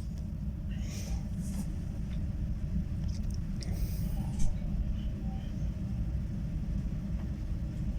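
Steady low rumble of a moving passenger train carriage heard from inside, with a few faint clicks and a short knock about halfway through.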